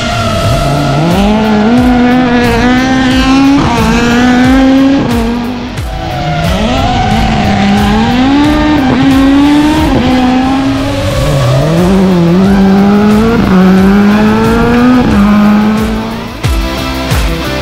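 Rally car engine revving hard under acceleration, its pitch climbing and dropping back several times as it shifts gears.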